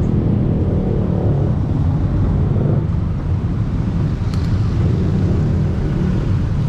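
Steady low rumble of wind buffeting the microphone while riding a bicycle along a road, with road traffic mixed in.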